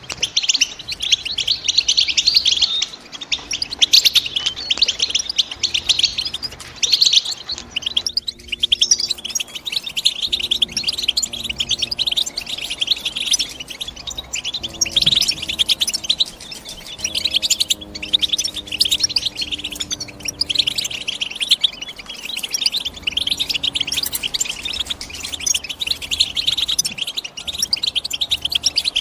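European goldfinch song: a fast, continuous twittering of high chirps and trills, pausing briefly about eight seconds in.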